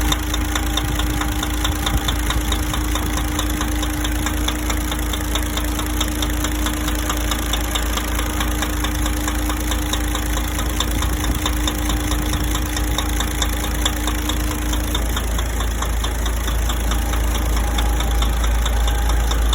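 DAF XF105 truck's inline-six diesel engine idling with a rapid, even knocking running through it, the engine knock the owner is showing.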